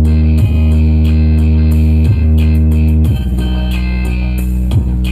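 Loud music played through a sound horeg rig, the towering stacked-loudspeaker system, with heavy held bass notes and guitar on top. The bass drops lower about three seconds in.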